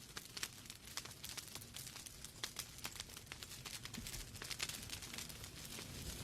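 Wood fire burning in a fireplace: irregular sharp crackles and pops from the burning logs over a soft low rumble of the flames.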